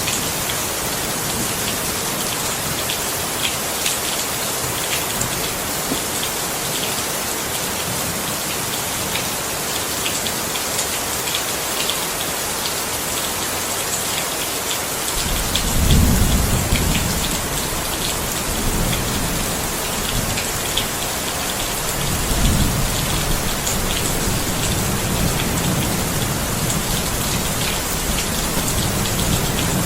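Steady rain falling, with the patter of individual drops. About halfway through, a low thunder rumble begins and swells twice before rolling on under the rain.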